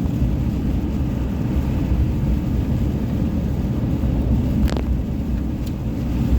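Steady low rumble of a car driving, heard from inside the cabin: engine and tyre noise on a snowy road. A single brief click comes about three-quarters of the way through.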